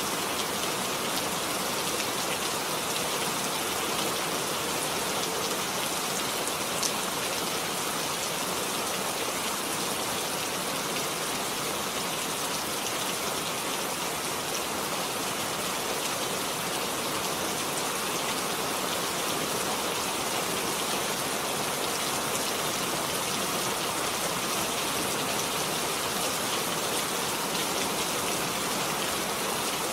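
Steady rain falling, a dense even hiss of drops with no letup.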